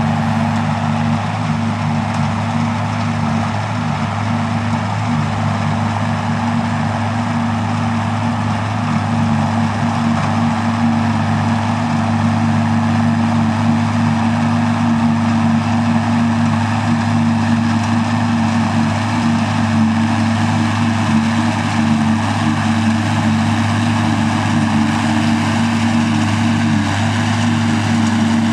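Farm tractor engine running steadily under load, with a broad mechanical rush over the engine note; it gets slightly louder about a third of the way through.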